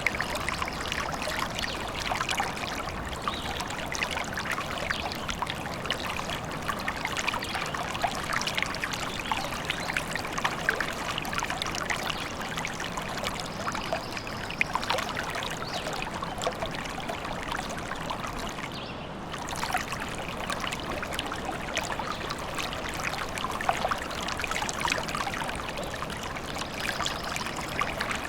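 Stream babbling and trickling steadily, with a brief dip in level about two-thirds of the way through.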